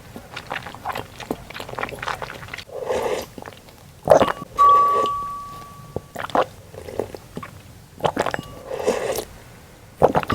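Close-miked eating of savory meat-filled glutinous rice balls (tangyuan): soft wet chewing with many small mouth clicks. About four seconds in there is a sharp knock followed by a clear ringing tone that fades over about a second and a half.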